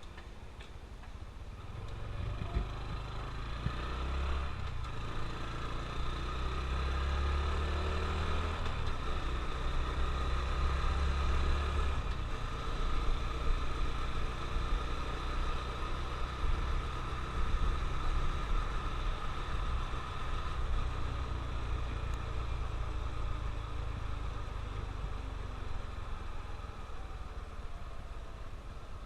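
Honda CT125 Trail motorcycle's single-cylinder engine running while riding, growing louder over the first several seconds as the bike picks up speed, with steady road and wind noise.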